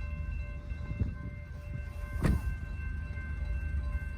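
Low rumble of an approaching CSX diesel locomotive, with a faint steady whine running through it. A single sharp knock comes about two seconds in.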